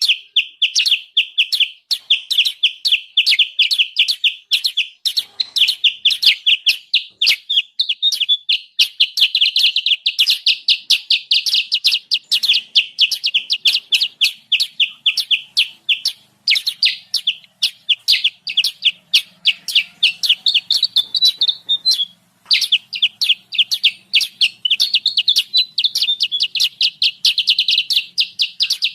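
Kutilang sutra calling in a rapid, agitated chatter, about five sharp high notes a second in long runs with a couple of brief pauses. This is the noisy call used as a trapping lure to bring wild birds in close.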